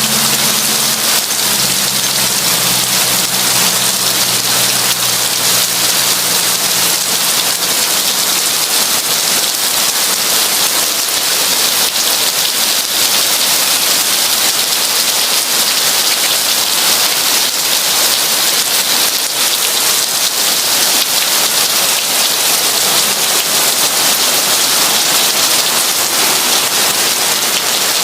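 Heavy rain falling in a steady, dense hiss. A low hum under it fades out over the first several seconds.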